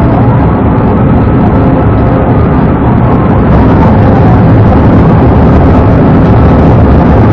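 Pursuing police car driving at high speed: loud, steady engine and road rumble heard inside the car, with a fainter wailing tone gliding slowly down and back up, typical of the cruiser's siren.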